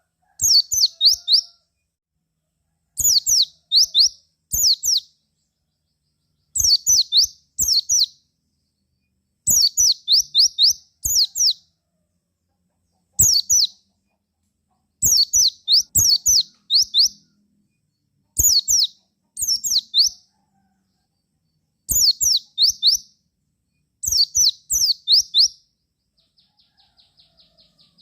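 White-eye (pleci) calling in short bursts of three to five quick, high, downward-sweeping chirps, repeated every second or two with silent gaps between. Near the end a fainter, rapid high ticking trill starts.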